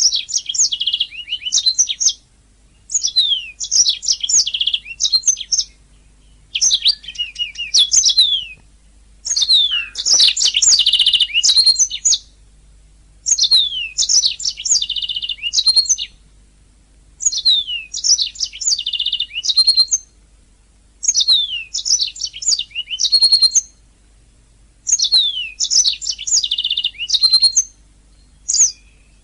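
Domestic canary singing in repeated phrases of two to three seconds, separated by short pauses. Each phrase is made of quick falling whistled notes and rapid trills.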